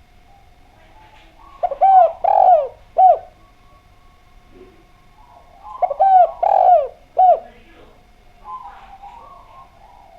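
Spotted dove (Javanese derkuku) cooing: two three-note phrases about four seconds apart, each a short coo, a longer coo and a short coo, every note dropping in pitch at its end. A faint steady tone and faint chirps of other birds lie underneath.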